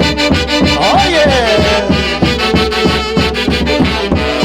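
A live Andean tropical dance orchestra playing, a steady fast beat under held melody lines, with a brief shout of 'Oye' over it about a second in.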